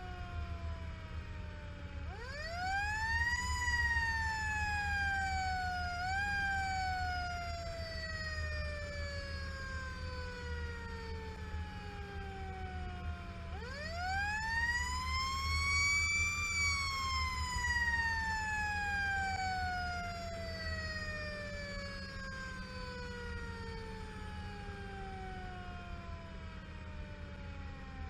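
Fire engine's mechanical siren winding up quickly and then slowly coasting down, twice, with a short second wind-up partway through the first coast-down. The truck's engine and road noise rumble low underneath.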